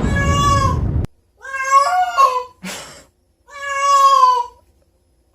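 A cat meowing: three drawn-out meows of about a second each, the last one sagging slightly in pitch at its end.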